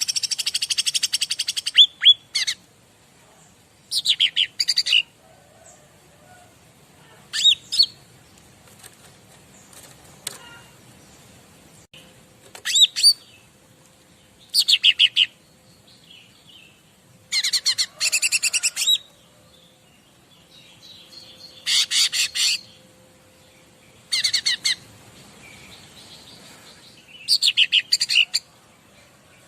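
Small songbird known in Indonesia as cica ranting singing short bursts of rapid, high chattering notes, each about a second long, repeated every few seconds.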